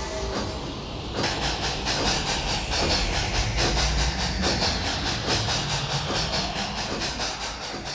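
Steam train chugging: hissing steam puffs that settle into a fast, even rhythm about a second in.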